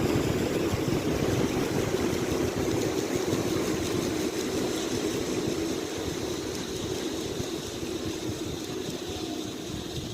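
Ceiling fan running, a steady whirring hum that slowly gets quieter.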